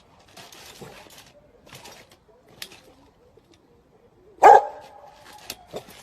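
A single short, loud animal call about four and a half seconds in, among faint rustling and scuffing.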